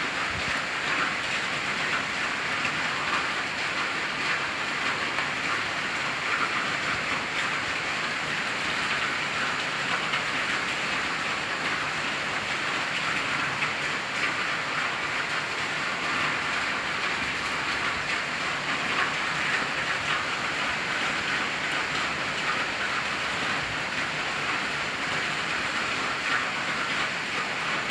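Heavy rain pouring steadily, a dense even hiss of drops without let-up.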